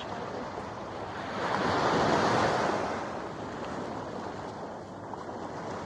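Water washing against the shore with wind on the microphone, a steady rushing noise that swells for a second or two about two seconds in and then falls back.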